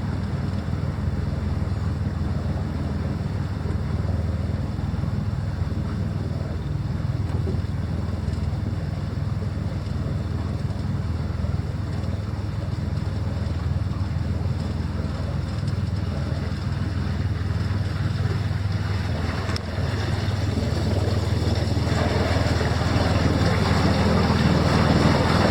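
Jon boat's outboard motor running steadily under way, with rushing wind and water noise that grows stronger about 22 seconds in.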